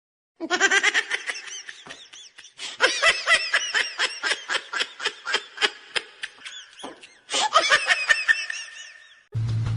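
A person laughing hard in quick repeated bursts of giggles, in three runs with short breaks between.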